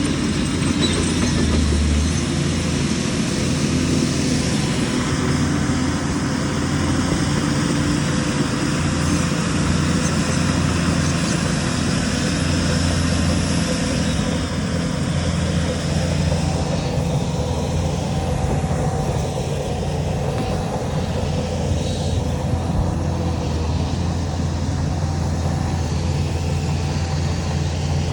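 Heavy diesel earthmoving machinery running steadily, a deep engine drone with little change over the whole stretch.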